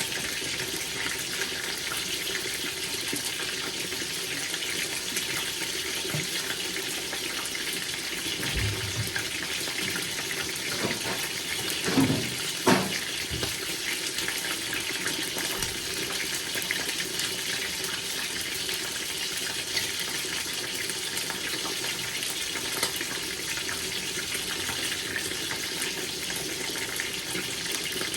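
Onions frying in hot oil, a steady sizzle, with a couple of short knocks about twelve seconds in.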